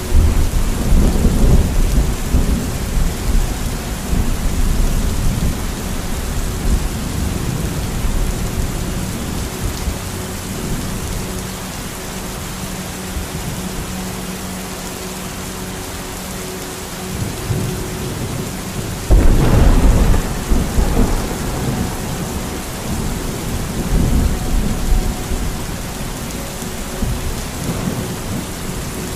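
Thunderstorm: steady rain with rolls of thunder, the loudest right at the start and about two-thirds of the way through, with smaller rumbles near the end.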